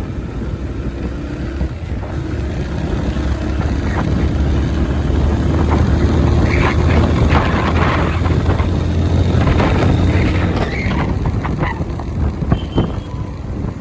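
Motorcycle engine running while riding, with wind rushing over the microphone. The rumble grows louder through the middle and eases near the end.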